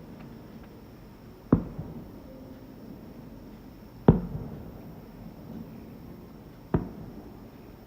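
Fireworks shells bursting in the sky: three separate bangs about two and a half seconds apart, each trailing off in an echo. The second is the loudest and the last is weaker.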